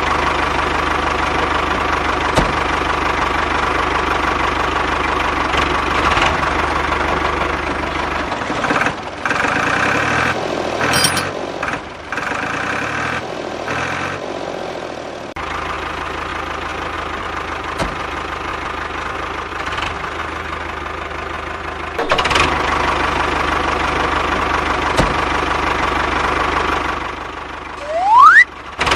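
Engine sound of a mini tractor running steadily, with a low knocking idle note that changes abruptly several times. A short rising whistle comes near the end.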